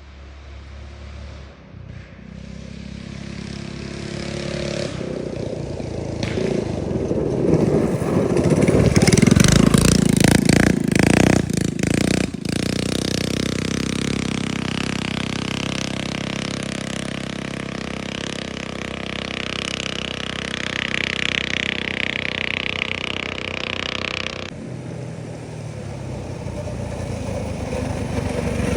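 Small minibike engine running and revving, growing louder over the first ten seconds or so, then running on steadily. The sound changes abruptly about twenty-five seconds in.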